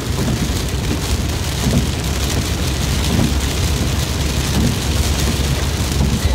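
Heavy rain drumming on a moving car, a steady dense hiss with the low rumble of the car running underneath.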